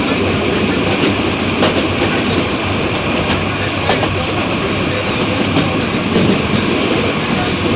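Train running along the track: a steady loud rumble and rattle, with a few sharp, irregular clicks from the wheels.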